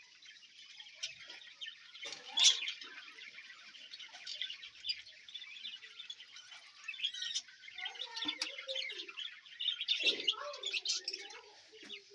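A colony of budgerigars chattering and chirping together in a continuous warble, with a few louder, sharper chirps standing out.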